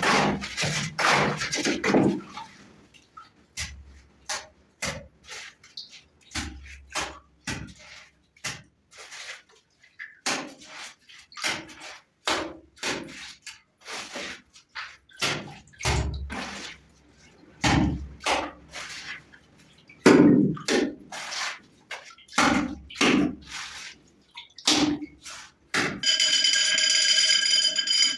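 Irregular knocks and clicks, at times several a second, with water sounds between them; music comes in about two seconds before the end.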